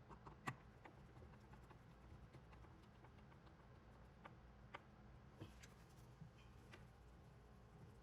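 Near silence: a low steady hum with faint, irregular light clicks and taps, the strongest about half a second in.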